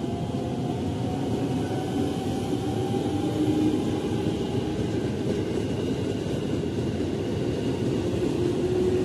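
Electric commuter train (KRL EMU) passing close by: a steady rumble of steel wheels on the rails, with a faint tone drifting slowly in pitch over it.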